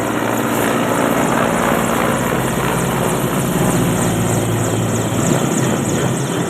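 Helicopter running: loud, steady rotor and engine noise with a constant low hum.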